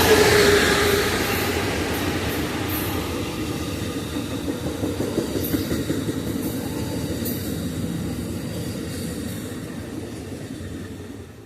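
Passenger train passing with rumbling running gear and clicking wheels over rail joints, loudest at the start and fading steadily as it moves away.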